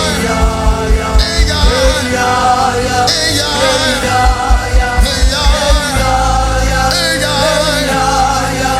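Gospel worship music: voices singing over a band, with a bass drum beating about four times a second that drops out for stretches and comes back.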